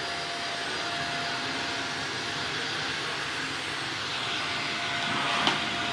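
Vacuum cleaner motor running steadily, with a faint steady whine over the rushing air and a single click about five and a half seconds in.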